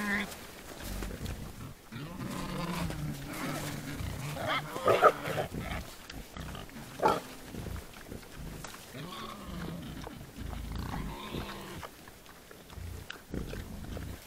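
Herd of wild boar grunting, with two louder, sharper calls about five and seven seconds in.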